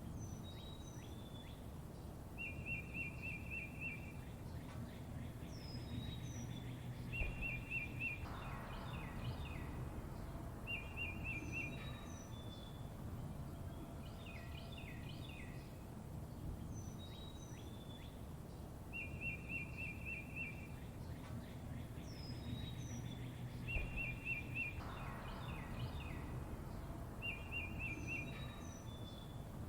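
Several birds chirping and calling, with short rapid trills recurring every few seconds, over steady low background noise. The same sequence of calls repeats about halfway through.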